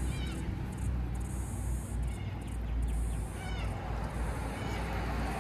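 Short bird chirps falling in pitch, repeated several times, over a steady low rumble and a high hiss.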